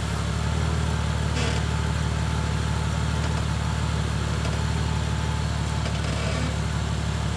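Jeep Cherokee's engine running steadily at low revs while the vehicle crawls slowly over a steep off-road obstacle.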